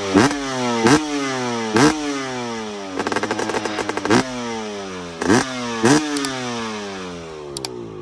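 KTM EXC 300 two-stroke enduro engine blipped hard about five times, each rev shooting up sharply and then falling away slowly, with choppy running in between. The engine fades near the end.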